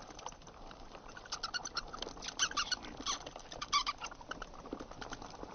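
Bats squeaking and chattering: many short, high squeaks and clicks, busiest in the middle, over a steady hiss.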